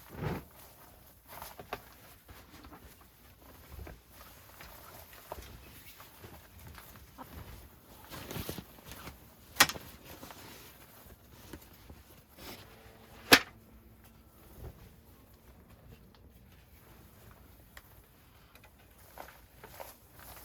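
Scattered light knocks and clicks, like objects being handled, with two sharp clacks about nine and a half and thirteen seconds in.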